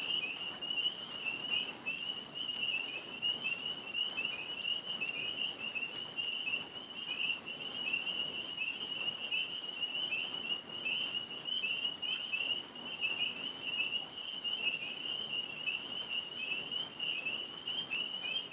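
A chorus of tree frogs calling: many high-pitched chirps overlapping into a steady, unbroken din.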